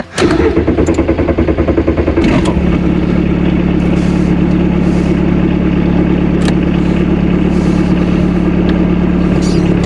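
A Volkswagen 1.6-litre four-cylinder turbo diesel cranking with a rapid pulsing for about two seconds, then catching and settling into a steady idle.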